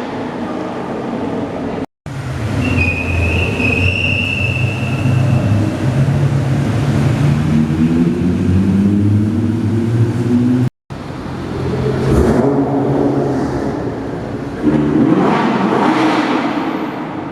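Car engines pulling away and accelerating in three short clips, cut apart twice; in the middle clip one engine note climbs steadily in pitch as the car speeds up.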